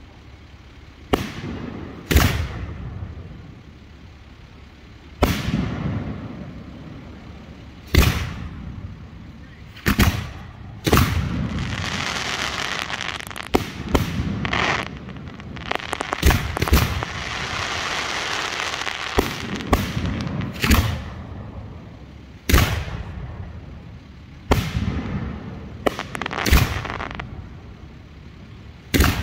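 3- and 4-inch hand-fired aerial fireworks shells booming: about twenty loud reports, some close together, each trailing off in a rumble. A steady hiss runs under the booms through the middle stretch.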